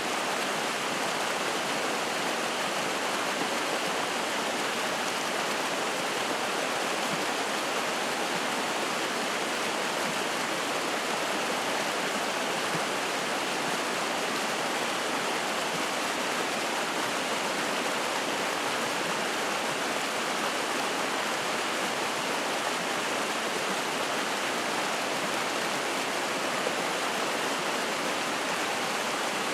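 Spring-fed mountain stream running: a steady, even rush of flowing and splashing water.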